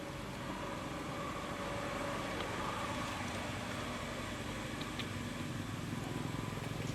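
A steady engine hum with a low rumble that slowly grows louder, and a few faint clicks.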